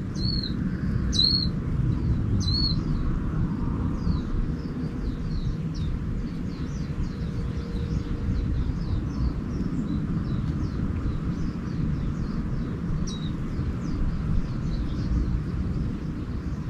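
Small birds calling: a few sharp, hooked call notes in the first three seconds and one more about thirteen seconds in, over a continuous run of faint, quick chirping from other birds. Under it runs a constant low rumble.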